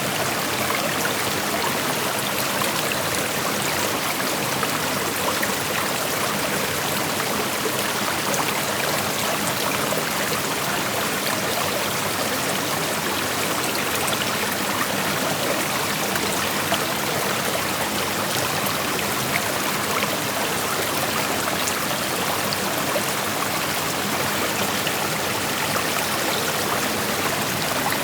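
Shallow creek flowing steadily over rocks, an even rushing with small splashes and trickles.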